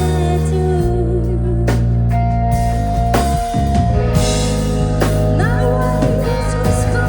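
A live rock band playing, with drums, bass and electric guitar, and a voice singing.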